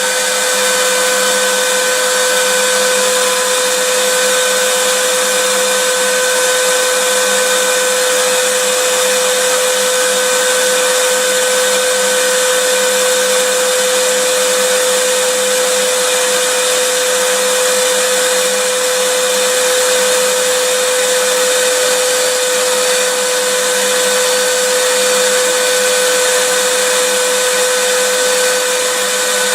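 Vacuum cleaner running steadily: a constant motor whine with a strong hum and airy hiss, unchanging throughout, played as white noise.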